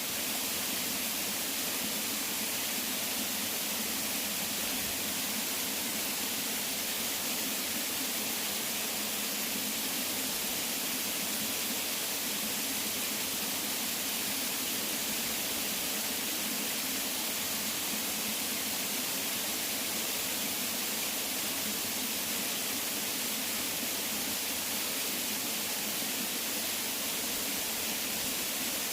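Waterfall: a steady, unbroken rush of falling water, with a bright hiss and little low rumble.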